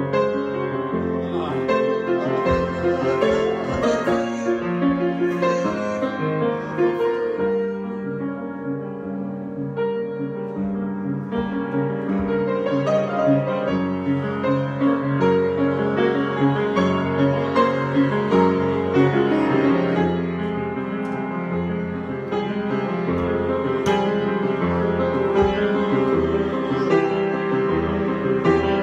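Solo piano improvisation, many notes and chords played continuously.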